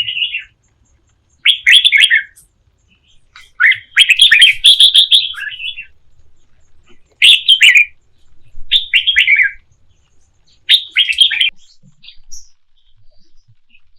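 A bird singing in short, loud phrases of quick chirps, each phrase falling from high to lower pitch, repeated about six times with brief pauses between.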